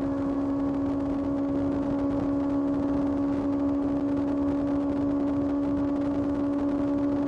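Kawasaki ZX-6R's inline-four engine running at a steady speed while riding, its pitch holding constant, over a low rush of wind and road noise.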